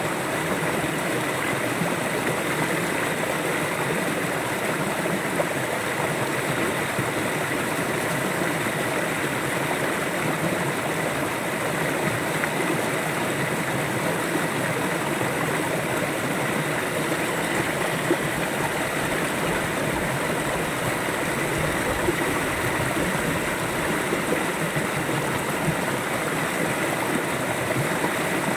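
River water flowing over rocks: a steady, even rush with light gurgling.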